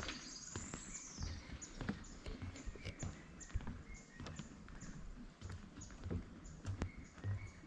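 Footsteps on a woodland path, with soft irregular thumps. A bird call slides down in pitch about a second in, followed by a run of short, high chirps.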